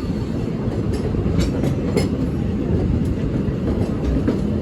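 Walt Disney World Railroad steam train running, heard from aboard: a steady low rumble of wheels on track with a few faint clicks from the rail joints.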